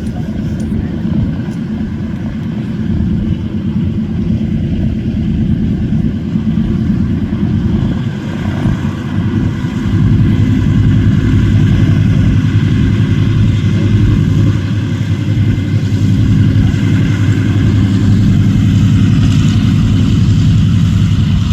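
The twin Pratt & Whitney R-1830 fourteen-cylinder radial engines of a C-47 Dakota running, with a deep, steady, pulsing note. About halfway through they grow louder as the power comes up.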